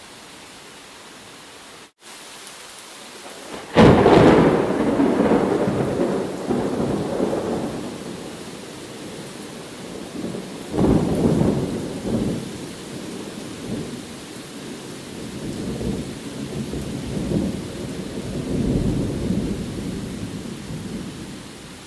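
Steady rain with thunder: a sharp clap about four seconds in that rumbles away over several seconds, another rumble near the middle, and rolling rumbles toward the end. The sound cuts out for an instant about two seconds in.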